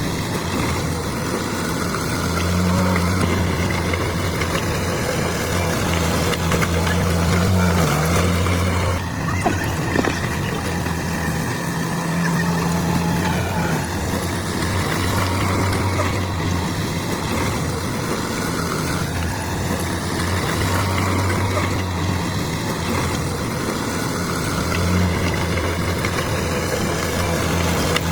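Bulldozer's diesel engine running at work, its low note swelling and easing every few seconds as the load comes on and off.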